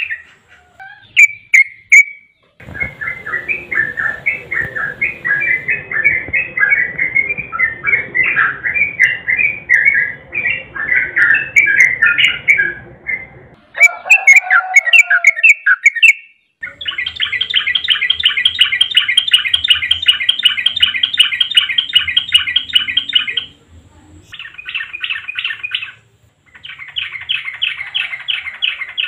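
Yellow-vented bulbul singing: a long run of loud warbled, chattering phrases, then fast, evenly repeated trills in three bursts with short breaks between them.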